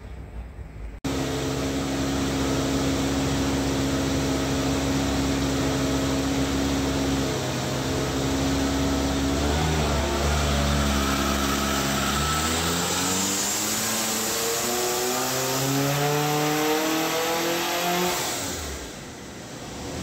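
Toyota Celica ST185's turbocharged 5SGTE BEAMS four-cylinder engine running on a hub dyno during tuning runs. It cuts in about a second in and holds a steady note for several seconds. It then revs up, its pitch climbing steadily, and drops away just before the end.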